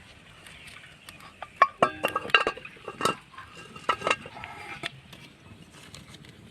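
Kitchen dishes and utensils clinking: a run of sharp clinks, each with a brief ringing tone, bunched between about one and a half and five seconds in.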